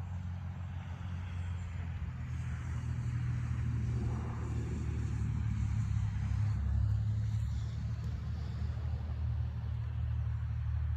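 A car passing by: its tyre and engine noise swells over a few seconds and then eases off, over a steady low rumble.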